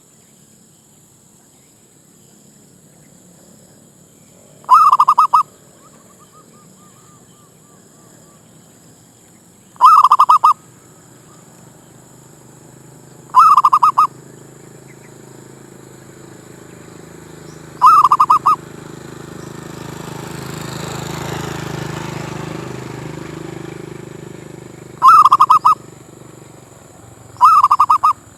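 Zebra dove (merbuk) cooing: six short, loud trilled coos, each about half a second long, spaced a few seconds apart. In the middle, a rushing noise swells and fades over several seconds.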